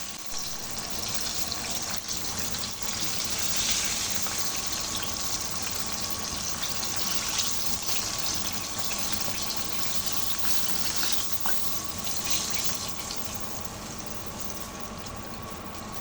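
Flour-coated chicken pieces deep-frying in hot oil, a steady sizzle that swells and eases, a little quieter over the last few seconds.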